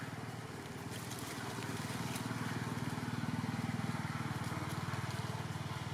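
A small engine running with a fast, even pulse, growing louder through the middle and easing slightly near the end.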